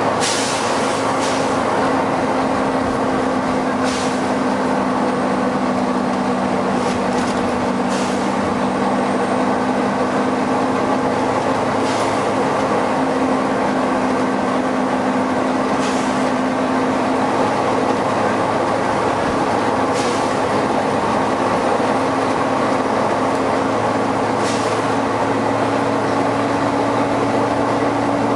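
Volvo B9TL bus's cooling fan and engine running steadily and loud, with short sharp hisses about every four seconds.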